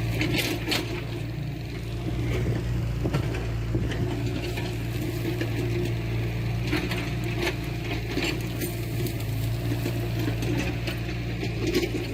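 Diesel engine of heavy earthmoving machinery running steadily, with scattered metallic clanks and knocks throughout.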